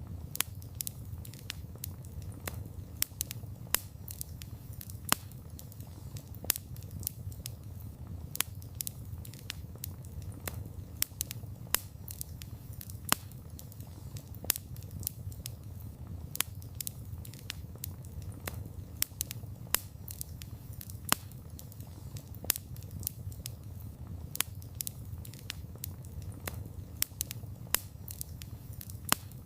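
Wood fire burning: a steady low rumble of the flames with irregular sharp crackles and pops, several a second.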